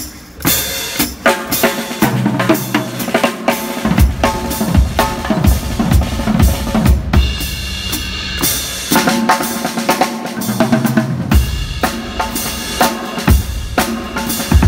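Drum kit played as a groove: bass drum, snare and hi-hat struck in quick succession, with the hi-hat splashed open and shut by the foot on the pedal.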